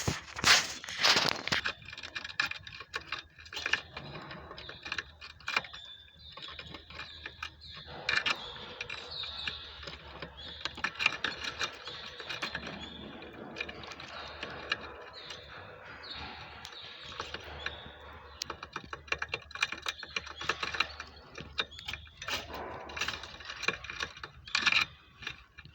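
Caged European goldfinches and their nestlings: a busy, continuous run of rapid clicks and high chitters.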